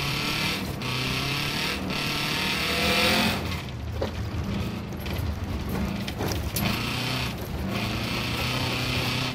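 Small car's engine heard from on board while driving a snowy gravel circuit. The note rises and falls as the throttle is worked, climbing to a louder burst about three seconds in before easing off. A hiss of tyres on the loose surface runs underneath, with a few short knocks from stones or bumps.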